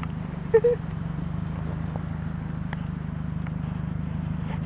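Ford Focus ZX3's four-cylinder engine idling steadily, with an even pulsing from the exhaust. A short chirp about half a second in.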